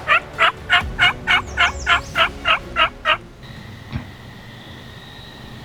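Turkey yelping: a run of eleven evenly spaced notes, about three a second, each dropping in pitch, stopping after about three seconds.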